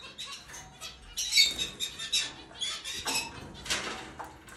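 Zebra finches bathing in a water dish: repeated bursts of splashing and wing-fluttering, with short high chirps mixed in, busiest from about a second in.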